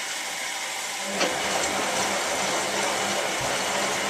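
Hotpoint 9534A washing machine filling for its first rinse, water hissing in through the inlet. About a second in, the drum motor starts a tumble, adding a steady hum.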